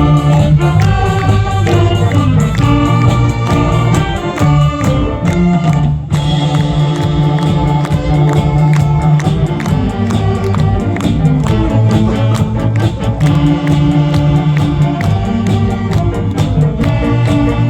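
Saxophone big band playing a medley of Korean popular songs (trot), sustained horn melody over a steady drum beat.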